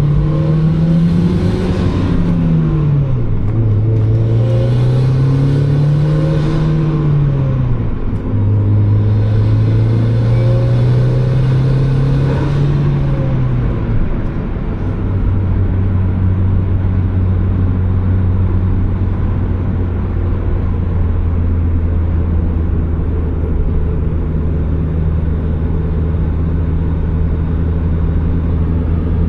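Turbocharged Mazda Miata's four-cylinder engine pulling hard through the gears: its pitch climbs and then drops at each of three shifts in the first half, with a hiss over it while it climbs. After that it runs at a steady pitch as the car cruises.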